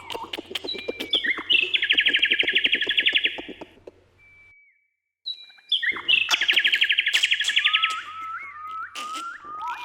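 Birdsong: a fast, loud trill sung twice with a brief silent gap between, followed by a run of short rising whistled notes and other lower calls.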